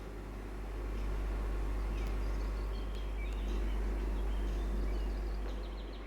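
A steady low rumble with faint, scattered bird chirps over it.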